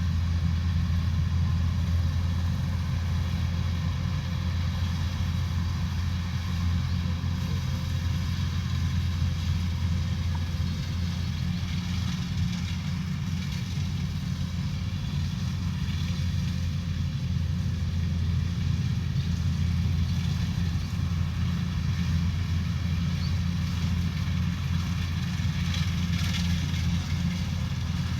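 Rice combine harvester running steadily, its diesel engine giving a continuous low drone with no change in speed.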